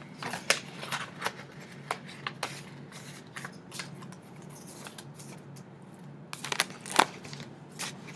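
Paper greeting cards and envelopes being handled: scattered rustles and light taps, with a louder cluster about six to seven seconds in.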